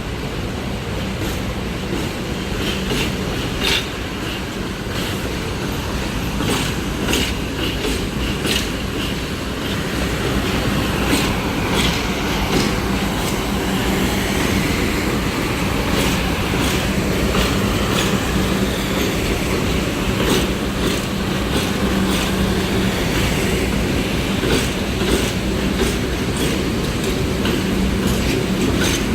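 New York City Subway 6 express train running on the rails: a steady rumble with a low hum, and sharp clicks as the wheels pass over rail joints. The noise grows louder over the first ten seconds or so, then holds.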